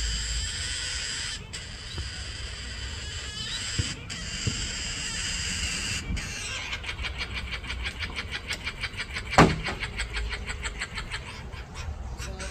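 Shrill, high-pitched bird calls. At first they run on steadily; about six seconds in they change to a fast, even run of short repeated calls, several a second. A single sharp knock comes near the end.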